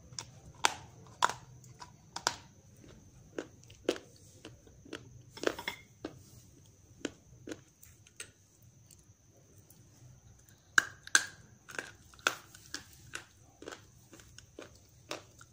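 Dry grey clay chunks crunching as they are bitten and chewed, eaten with grey clay paste: sharp, irregular crunches with a dense run of them about two-thirds of the way through.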